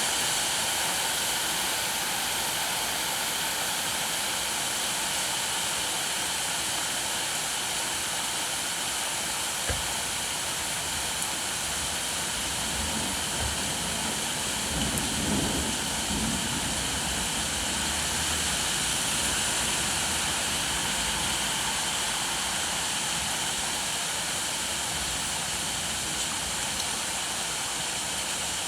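Steady rain falling, an even hiss. A single knock comes about ten seconds in, and a brief low rumble a few seconds later.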